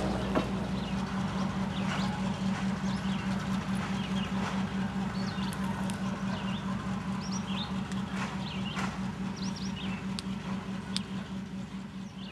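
Passenger train receding down the track: a steady hum with the rhythmic clatter of wheels over rail joints, about three beats a second, fading slowly. Songbirds chirp in short high notes over it.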